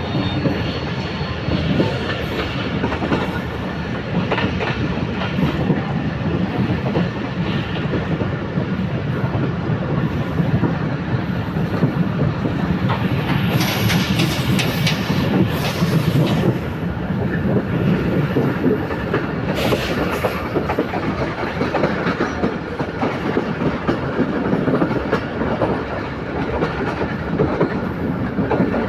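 A long train's cars rolling past, wheels clattering steadily over the rail joints. Short bursts of high hiss come about halfway through and again a few seconds later.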